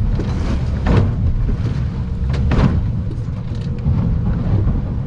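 Steady low rumble of the Stabicraft 2050 Supercab's engine and hull, heard from inside the cabin while running in rough water. Bursts of water strike the boat about a second in and again around two and a half seconds.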